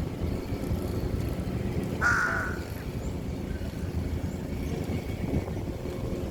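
A bird gives a single harsh, caw-like call about two seconds in, lasting about half a second, over a steady low rumble of wind on the microphone.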